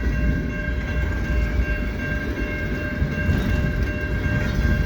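Freight cars of a long, slow freight train rolling past: a steady low rumble with a faint, steady high-pitched tone running over it.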